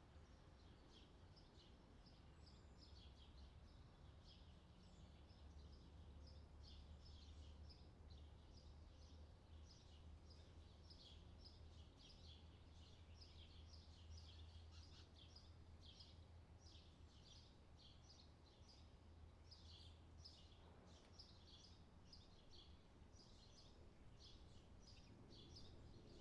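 Faint birdsong: a continuous run of short, high chirps, several a second, over a low steady hum.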